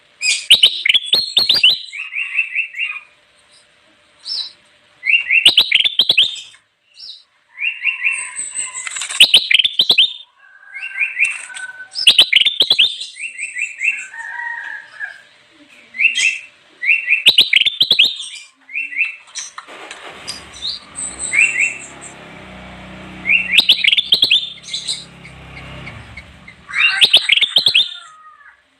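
Kutilang emas, a bulbul, calling: bursts of rapid bright chirps every second or two with short pauses between, and a stretch of low rushing background noise near the middle.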